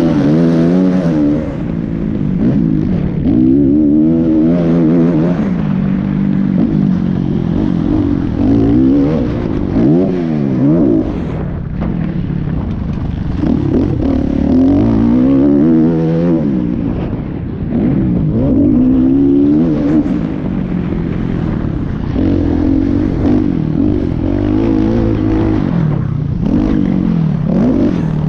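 Motocross dirt bike engine running hard, its pitch rising and falling over and over as the throttle is opened and closed through the gears.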